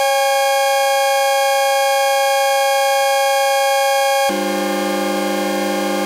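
Doepfer A-117 DNG 808 source module sounding its 2-oscillator output: a steady, unwavering buzzy chord of two square-wave tones, like a horn. About four seconds in it switches abruptly to the 6-oscillator output: a denser, lower, slightly quieter metallic chord, the raw TR-808 cymbal and hi-hat source.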